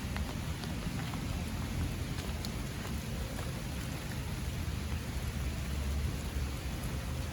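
Light rain falling, a steady hiss with a few faint drop ticks, over a steady low rumble.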